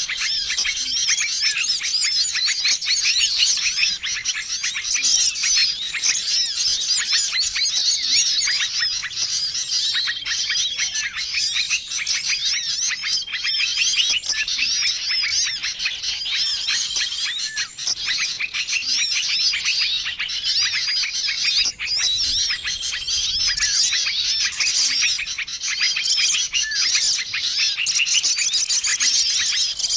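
A dense, busy chorus of many small songbirds chirping and twittering over one another, with a short level whistle repeating every few seconds: a mixed bird-lure call recording made to attract small wild birds.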